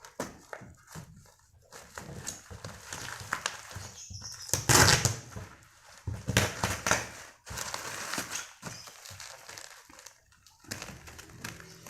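Unboxing handling noise: packaging rustling and crinkling, with irregular clicks and knocks from a wire bird cage being handled. The loudest bursts come about five and seven seconds in.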